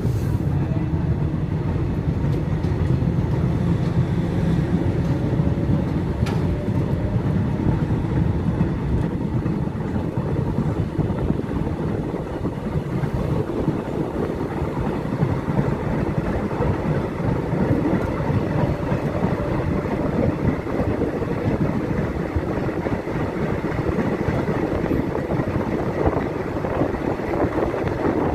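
A train running along the track: a steady, continuous rumble and rattle of the moving train.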